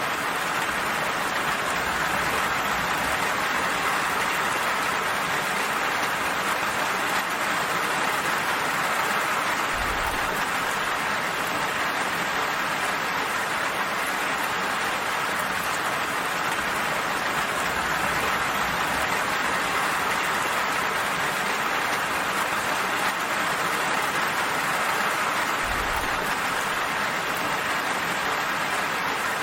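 Steady rain falling, an even hiss without individual drops standing out.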